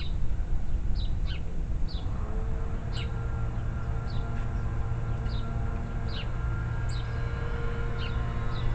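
A songbird giving short, high, downward-sliding chirps, about one a second, over a steady low motor hum that sets in about two seconds in.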